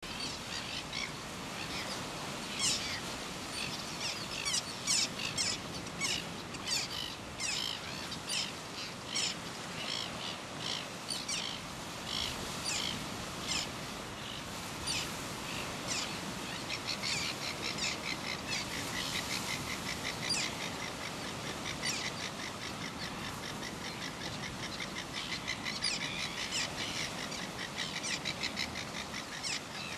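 Red-billed gulls calling: a stream of short calls, one or two a second, with faster runs of rapid calls about two-thirds of the way in and again near the end.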